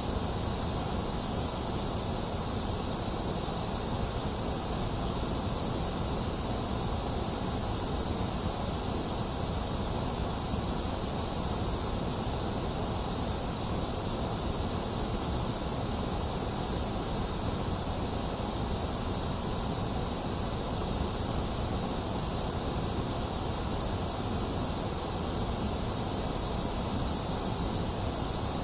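Box fan whirring steadily, mixed with a constant hiss of rain, with no thunder.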